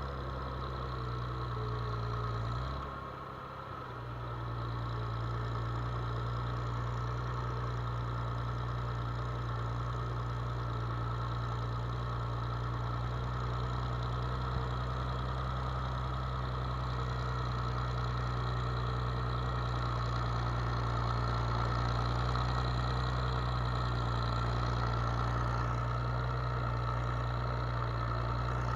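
Farm machine's engine running steadily, with a short dip in level about three seconds in.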